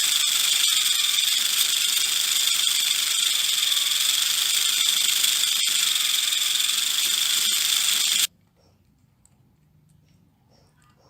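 Steady high-pitched hissing whir that cuts off abruptly about eight seconds in, leaving near silence.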